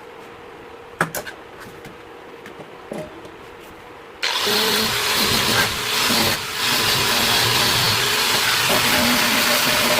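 A few light clicks and knocks. Then, about four seconds in, a workshop machine switches on abruptly and runs steadily and loudly with a strong hiss.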